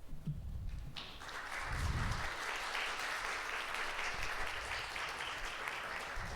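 Audience applauding. The applause begins about a second in and keeps going, with low rumbling thumps at the start and again about two seconds in.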